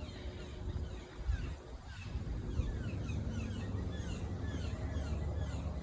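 A bird calling a quick run of short, downward-slurred chirps, over a steady low rumble.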